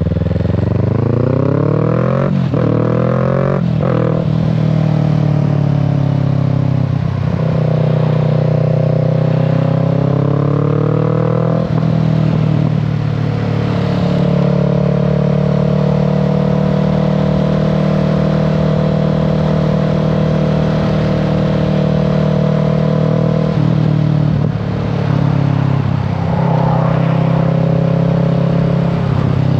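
Kawasaki Z650 parallel-twin engine and exhaust under way. The pitch climbs in quick steps as it shifts up through the gears over the first few seconds, rises again until about twelve seconds in, then holds steady at cruise. It eases off briefly near the end before picking up again.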